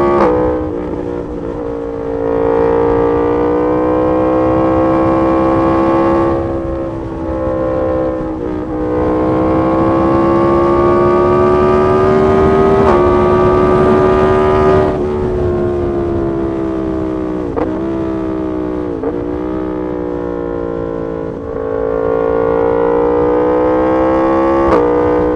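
2018 Yamaha MT-10 SP's crossplane inline-four running through an SC Project exhaust while riding, with the pitch climbing steadily under throttle and dropping back several times as the throttle is closed or gears change.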